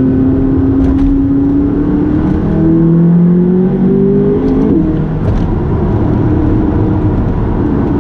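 McLaren 570GT's twin-turbo V8 heard from inside the cabin while driving. The engine note runs steady, then climbs in pitch as the car accelerates from about two and a half seconds in, drops abruptly just before five seconds, and settles back to a steady cruise.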